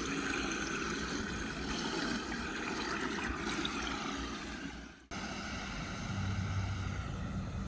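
Steady rushing of floodwater flowing on a flooded street toward a storm drain. The sound breaks off abruptly about five seconds in and resumes at once, and a low hum joins about a second later.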